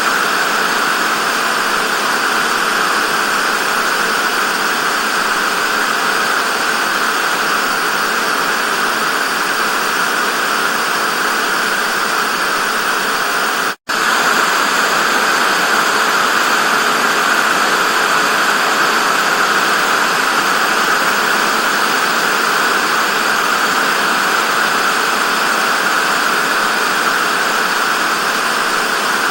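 Television static: a steady, loud hiss, strongest in the upper middle of the range with almost no low end. It cuts out completely for an instant about halfway through, then resumes unchanged.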